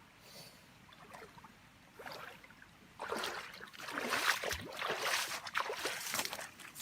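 Water splashing and sloshing in an irregular run of bursts, starting about three seconds in after a near-quiet start.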